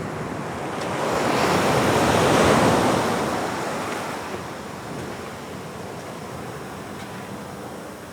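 Atlantic surf breaking on a rocky shore: one wave swells into a loud rushing crash about two and a half seconds in, then fades to a steady wash.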